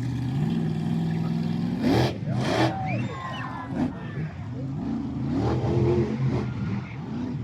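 Monster truck engine revving, its pitch stepping up and down several times, with two short loud bursts about two seconds in.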